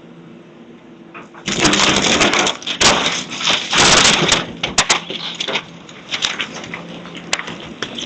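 House debris crashing and breaking as the building is torn down by machine, with a machine's engine running steadily underneath. The loudest crunching and cracking comes from about a second and a half in to about five seconds, then thins to scattered cracks and clatter.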